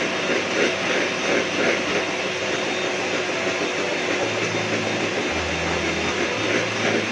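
Electric mixer running steadily, whipping cream powder and milk into whipped cream as it thickens.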